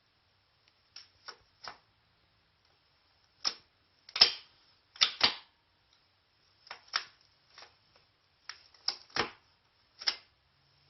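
Irregular sharp metal clicks and knocks, about a dozen, some in quick pairs, from tools and parts being handled during work on a car's shift lever mounting.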